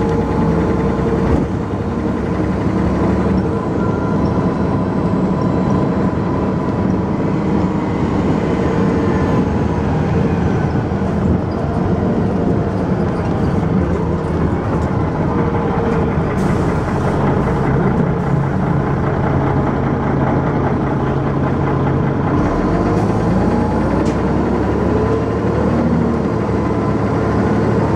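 Dennis Arrow double-decker bus's diesel engine running under way, its note rising and falling several times as the bus speeds up and slows. The uploader says this bus's engine makes a knocking noise.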